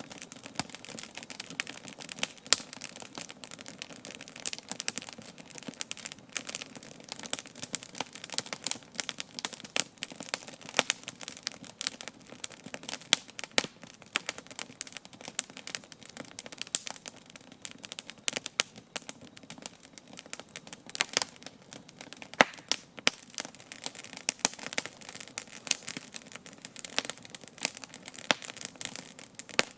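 Wood campfire crackling: dense, irregular pops and snaps, several a second, with a few sharper, louder snaps now and then.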